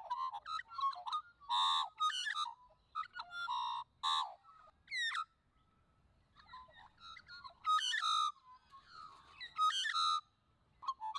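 Australian magpie warbling: clear, fluting pitched notes and quick glides in a string of short phrases, with a pause about halfway through.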